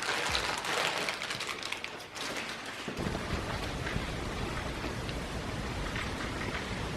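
Steady rain falling, with scattered drops ticking. About three seconds in, the sound shifts to a fuller, denser rain noise with more low rumble, which holds steady.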